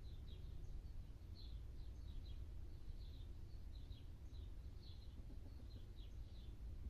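Faint, short, high bird chirps repeating two or three times a second over a low, steady background rumble.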